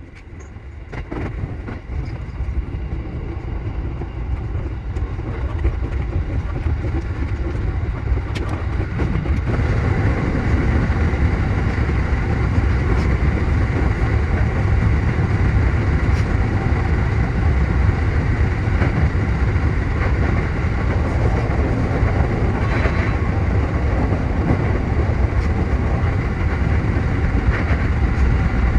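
E233-7000 series electric train running on rails, heard from inside the front car. The rumble of wheels and running gear grows over the first ten seconds or so as the train gathers speed, then holds steady.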